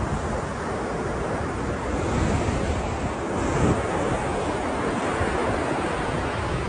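Ocean surf: waves breaking and washing in a continuous rush of water, swelling slightly now and then, with a low rumble underneath.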